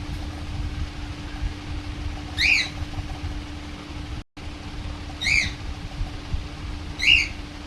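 A young pet parrot gives three short, sharp squawks a few seconds apart, each rising and falling in pitch, over a steady low hum.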